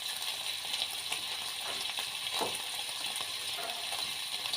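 Food frying in a hot pan: a steady sizzle, with a faint knock about two and a half seconds in.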